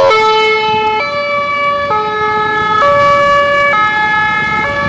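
Fire engine's two-tone siren, alternating between a low and a high note about once a second.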